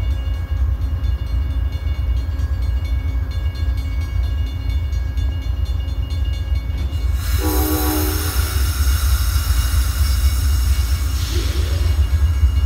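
Amtrak Vermonter passenger train rumbling steadily at a grade crossing while the crossing bell rings. About seven seconds in comes a short horn-like blast, followed by a hiss of air that lasts a few seconds.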